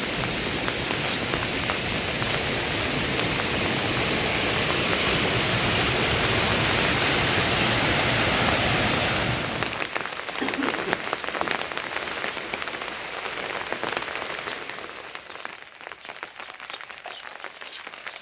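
Steady heavy rain falling. About halfway through it drops suddenly to a lighter patter of scattered drops, which fades further near the end.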